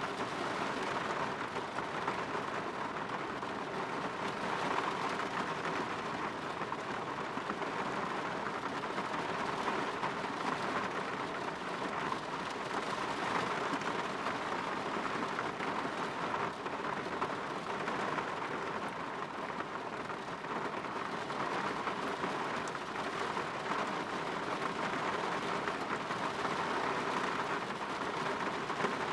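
Steady rain falling on a window, an even hiss with no pauses.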